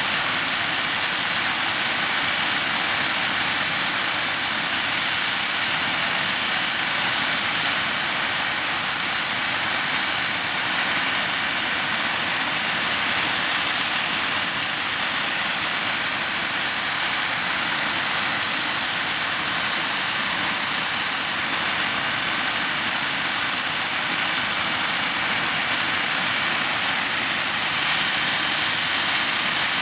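Hawker Siddeley Nimrod's Rolls-Royce Spey turbofan engines running during a ground engine run: a loud, steady jet rush with a high whine held at one pitch.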